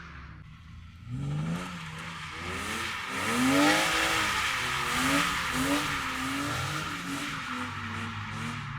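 A drift car sliding by, its engine revving up and down over and over as the throttle is worked, with tyre squeal hissing underneath. It gets going about a second in and is loudest around the middle.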